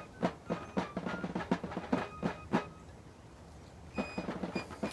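Footsteps crunching on a loose pea-gravel trail, about four steps a second, stopping a little past halfway.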